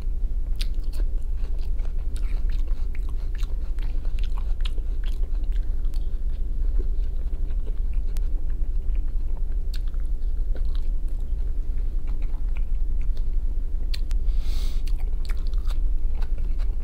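A person chewing and biting food with the mouth close to the microphone: many small wet clicks and crunches. A steady low hum runs underneath.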